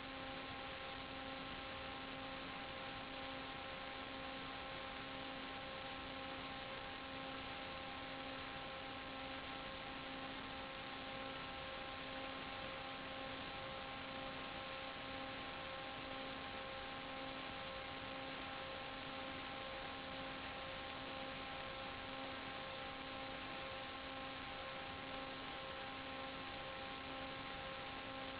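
Steady hiss with a constant buzzing hum of several evenly spaced tones, the lowest one pulsing gently about twice a second: the noise and interference hum of the analog 5.8 GHz FPV video link's audio channel.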